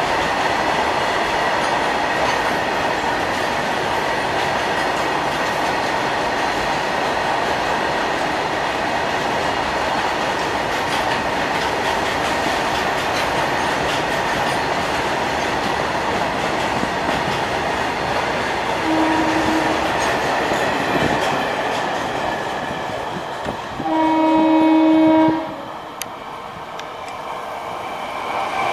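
Long rake of open-top freight wagons rolling past steadily, a continuous clattering rumble that dies away near the end. A short faint horn blast comes about two-thirds of the way through, then a loud horn blast about a second and a half long from an approaching suburban electric local train.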